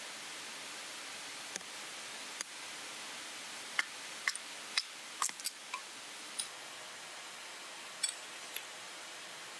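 Wood fire crackling: a steady hiss with scattered sharp pops and snaps at irregular intervals, busiest in the middle.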